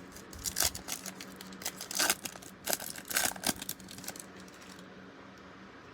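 Foil wrapper of a 2018 Topps Update baseball card pack crinkling and tearing as it is opened, a run of sharp crackles that dies down after about four seconds.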